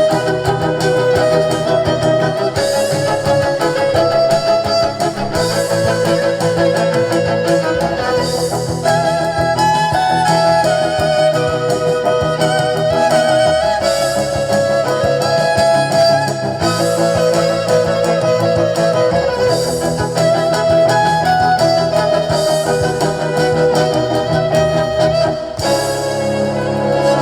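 A band playing an instrumental passage, with a melody line carried over steady accompaniment.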